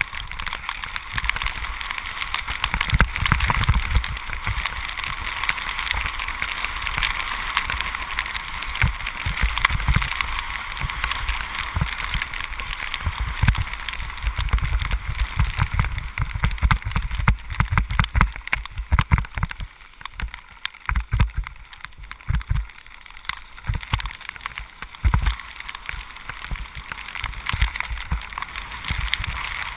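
Tyres hissing through water on a rain-soaked road, with wind buffeting the microphone in irregular low thumps; it eases somewhat about two-thirds of the way through.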